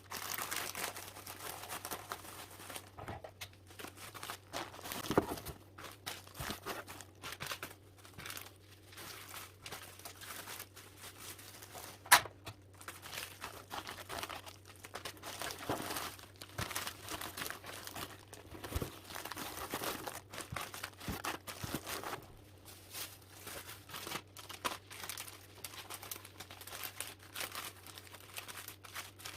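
Packaging material crinkling and rustling as it is handled by hand during parcel packing, with one sharp click about twelve seconds in. A faint steady low hum runs underneath.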